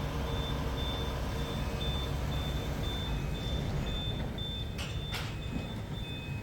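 Reversing alarm on a working vehicle beeping steadily, about two high beeps a second, over a running engine's low rumble. Two sharp knocks come about five seconds in.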